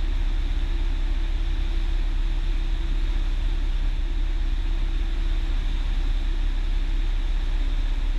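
Cessna 172's engine and propeller droning steadily in the cabin on final approach, a constant low hum under an even rushing noise.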